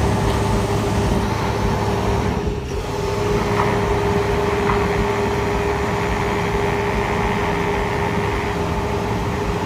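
A motor vehicle's engine runs steadily, with a constant hum and road noise. The level dips briefly about two and a half seconds in.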